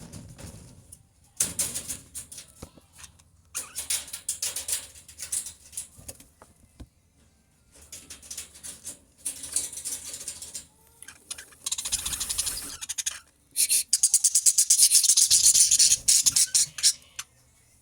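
Budgerigars chattering in bursts of rapid, scratchy calls. The loudest and longest run of fast chatter comes near the end.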